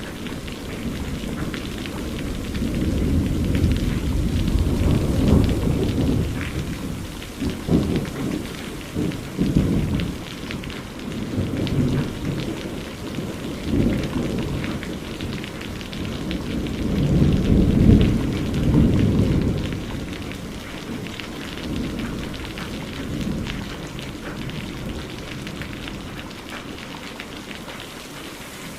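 Steady rain with thunder rolling in repeated low rumbles, the loudest a little past the middle.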